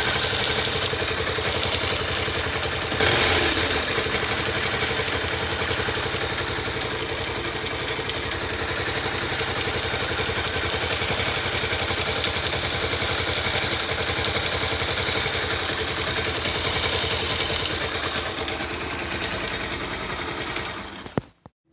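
Yamaha Factor 125 motorcycle's air-cooled single-cylinder four-stroke engine running at idle, briefly louder about three seconds in. The sound ends abruptly near the end.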